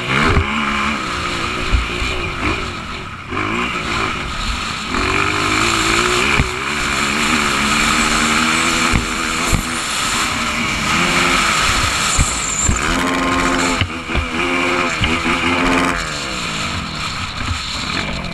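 Motocross motorcycle engine revving hard and falling off again and again as it races through the gears, with wind rushing over a helmet-mounted camera's microphone.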